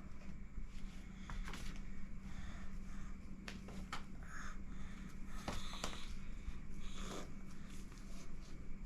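Scattered light clicks and soft rustles of small objects being handled, over a steady low hum.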